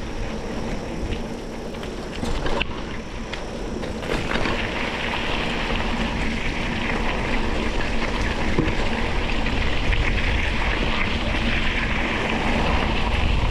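Mountain bike rolling downhill on a gravel forest road: wind buffeting the microphone with a low rumble, tyres crunching over loose stones, and the bike rattling with scattered clicks. The noise grows denser and a little louder from about four seconds in.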